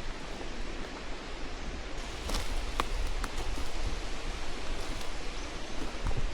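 Outdoor forest ambience: a steady hiss with leaf rustling and a few light ticks about two to three seconds in.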